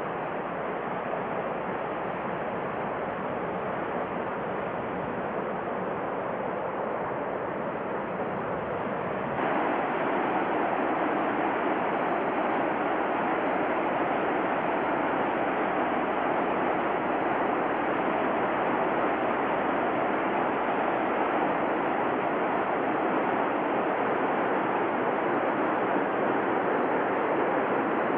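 Whitewater river rapids rushing steadily, getting suddenly louder and brighter about a third of the way through.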